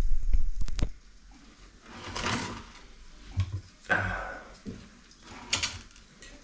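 Kitchen handling sounds: a loud low rumble with two sharp knocks that stops about a second in, then a few short, separate knocks and rustles.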